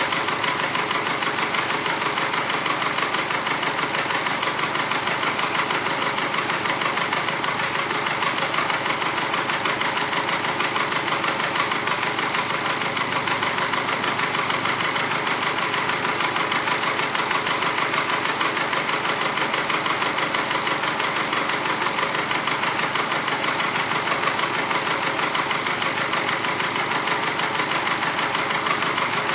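Rebuilt Subaru EJ255 2.5-litre turbocharged flat-four with forged pistons, running at a steady speed with a loud, rapid, even knock and tick. The owner takes it for forged-piston slap that persists even at operating temperature.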